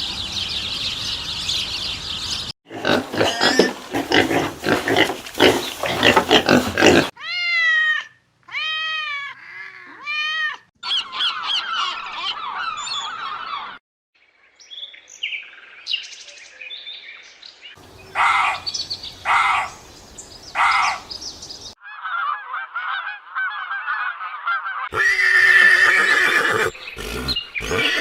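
A string of short clips of different animal calls cut abruptly one after another, mostly bird and fowl squawks and honks: a repeated descending squawk a third of the way in, and rhythmic pulsed calls past the middle.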